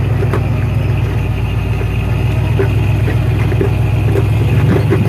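A 4x4's engine running steadily at low revs under load as it crawls up rocks, with a few short knocks, and the revs swell slightly near the end.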